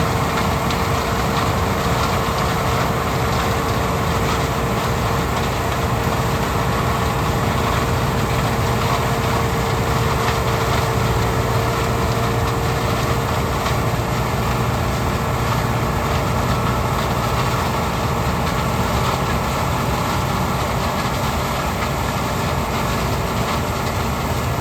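John Deere 6600 combine running steadily while harvesting corn: a constant engine and machinery drone with a steady hum, heard from inside the cab.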